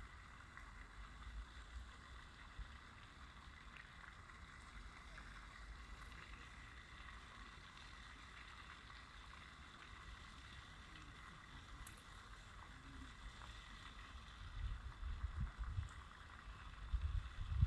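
Faint outdoor ambience: a steady soft hiss, with low rumbling gusts of wind buffeting the microphone twice near the end.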